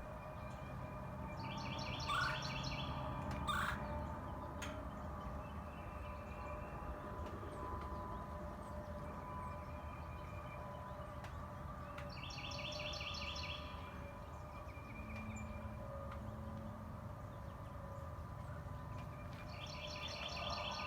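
Songbird singing: three phrases of rapid trilled notes, each about a second and a half long and spaced roughly ten seconds apart, with two short, sharp calls a couple of seconds in that are the loudest sounds. A faint steady hum and low background noise run underneath.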